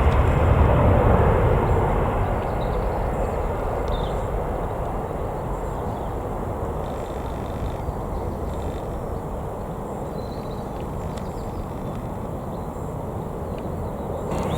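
Jet airliner engine noise fading away over the first several seconds, then settling into a steady, lower noise.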